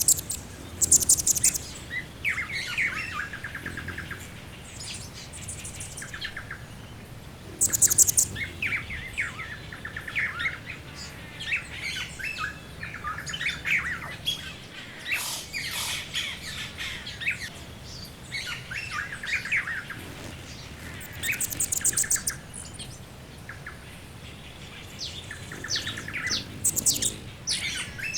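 Background bird ambience: several birds chirping and singing together. Loud, very high, rapid trills stand out near the start, about 8 seconds in, around 21 seconds and near the end, over a faint steady low background.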